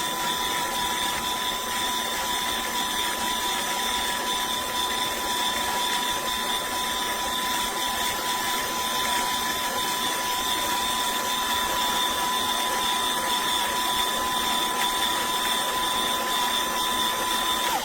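Viesimple Gen 4 single-dose electric burr coffee grinder running and grinding a dose of beans: a steady motor whine over the rasp of the burrs, which stops abruptly near the end.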